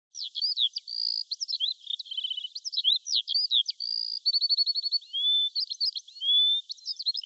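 A songbird singing a fast, varied song of whistled notes, quick up-and-down sweeps and rapid trills, starting abruptly and running on with only brief gaps.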